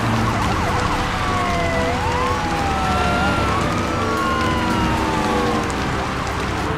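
Siren wailing, its pitch sliding slowly up and down in overlapping sweeps, over steady rain and a low engine rumble.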